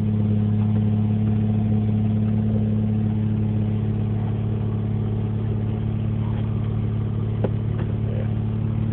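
Lexus SC300's turbocharged 2JZ-GE inline-six running steadily at idle, freshly started on a MegaSquirt v3 standalone ECU, with a high idle the owner has yet to tune out. A brief click sounds about seven and a half seconds in.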